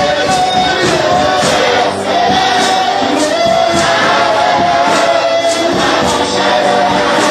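Gospel worship music: a choir sings held notes over a steady beat of about two strokes a second.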